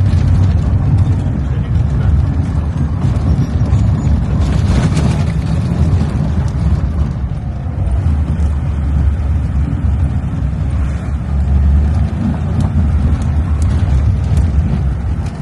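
Soviet Lada car driving off-road on a rough dirt track: a steady low rumble of engine and road noise, with a few knocks from the body and suspension.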